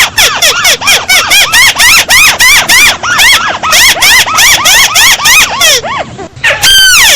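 Rice-field crake calling, a recording used as a trapping lure: a fast run of loud, high, arched squealing notes, about five a second, with a short break about six seconds in before a fresh burst.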